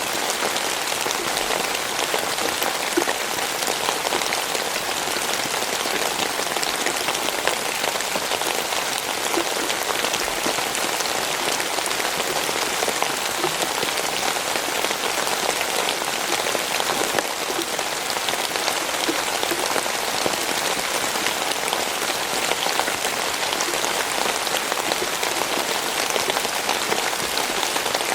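Steady rainfall, a dense even hiss of rain with many small drops pattering on a surface.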